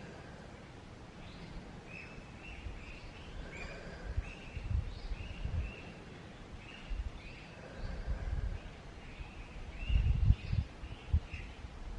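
Forest ambience: a small bird calling in repeated short chirps, about one a second, over a steady background hiss. Intermittent low rumbles come and go, strongest about ten seconds in.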